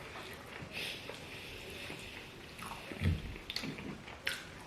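Faint eating sounds: chewing and mouth noises with a few soft clicks, and a low thump about three seconds in.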